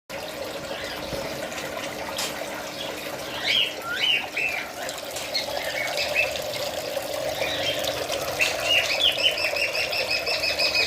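Small birds chirping, with a fast run of repeated chirps near the end, over a steady rush of running water.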